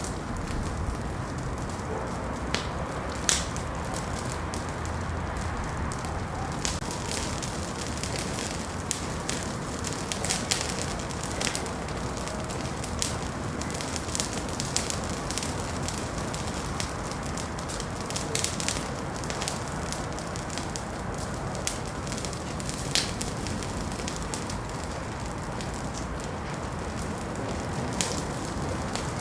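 Wood fire crackling in a fireplace: a steady hiss with irregular sharp pops and snaps.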